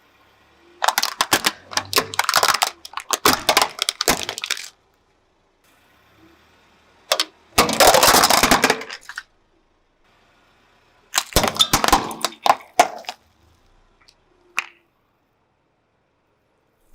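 Objects crunching and crackling as a car tyre rolls over and crushes them, in three bouts of dense cracking and snapping with a single short click near the end.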